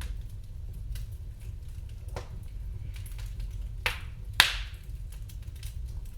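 Wood fire crackling in a fireplace: scattered small pops and clicks over a low steady rumble, with two louder cracks about four seconds in, the second trailing off in a brief hiss.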